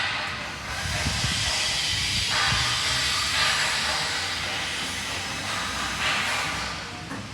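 A steady hiss of spraying air, swelling and easing a little over the seconds.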